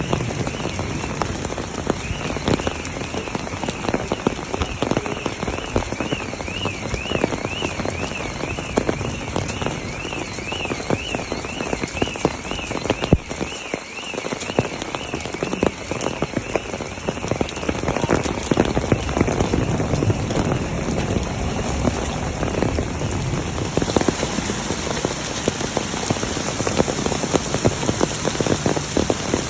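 Hailstorm: hailstones and rain pelting down in a dense, steady patter of small hard impacts, a little heavier in the last few seconds. A faint warbling tone, rising and falling about twice a second, runs under it through the first half.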